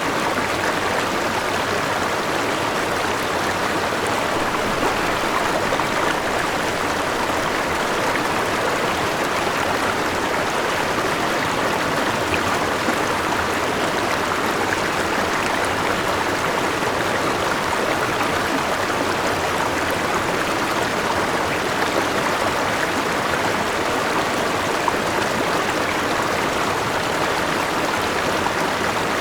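River water rushing and splashing over rocks in a steady, even flow, with a small waterfall in it.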